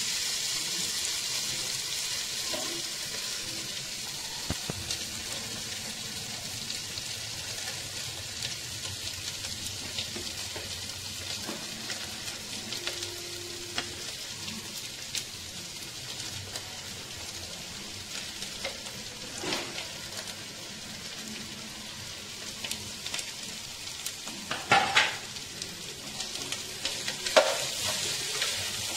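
Minced chicken sizzling in hot oil in a non-stick pan, stirred with a steel spatula that scrapes and clicks against the pan. Vegetables are added and stirred in, with a few louder spatula clatters near the end.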